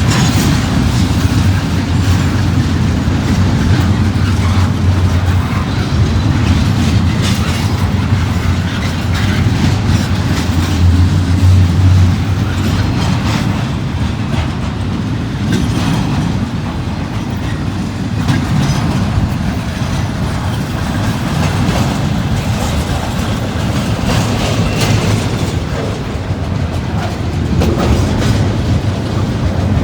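Freight cars of a passing CSX train rolling by, a steady rumble with the repeated clacking of wheels over rail joints.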